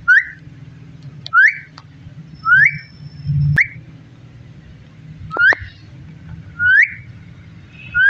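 Indian ringneck parrot giving about seven short rising whistled calls, roughly a second apart.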